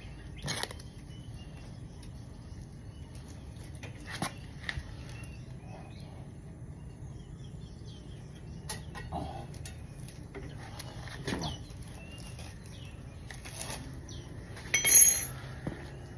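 Scattered light clicks and metallic knocks from handling tools and motorcycle parts, with a louder, brief clatter near the end, over a steady low background hum.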